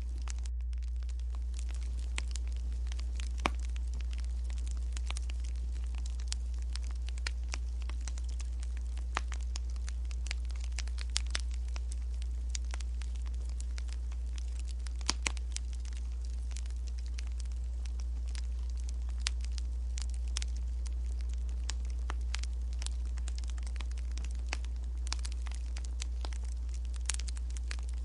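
Wood fire crackling, with irregular sharp pops over a steady low hum.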